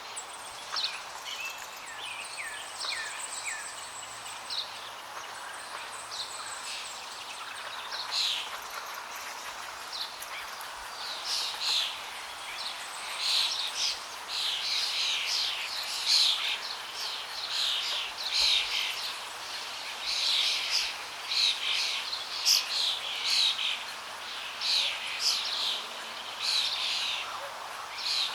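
Many small birds chirping and singing in quick, short notes over a steady rush of flowing water; the chirping grows busier from about halfway through.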